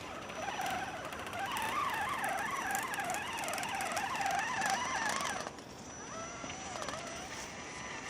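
A cat yowling: a long warbling cry that wavers rapidly up and down in pitch for about five seconds and breaks off suddenly, followed by fainter, shorter drawn-out mews.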